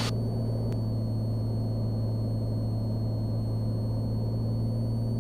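Cessna Skylane's engine and propeller droning steadily in cruise, heard from inside the cockpit.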